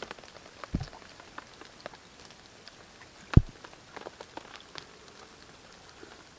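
Scattered raindrops and drips falling one by one at an irregular pace. One much louder, deeper drop thuds about three and a half seconds in, and a smaller one comes near the start.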